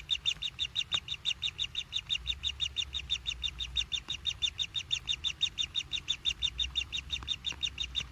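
Nestling bird's begging calls: a fast, steady run of high chirps, about five or six a second.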